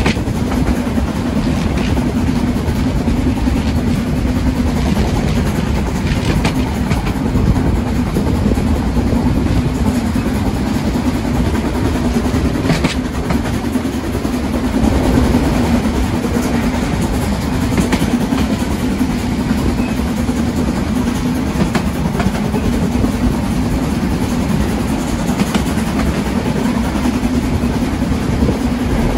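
A train running on the rails: a steady, loud rumble with scattered short clicks from the wheels on the track.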